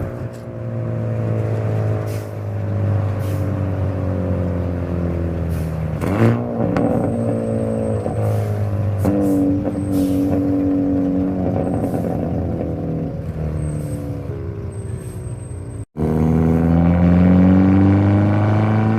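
Hyundai Elantra N's turbocharged 2.0-litre four-cylinder engine and exhaust on the move, revs slowly easing off, with a quick rev blip about six seconds in. After a brief break near the end, the revs climb steadily under acceleration.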